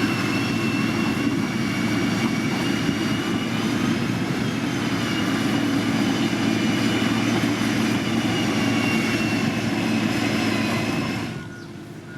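Heavy road-construction machine's engine running steadily under load, a low rumble with a high whine over it. It drops away sharply near the end.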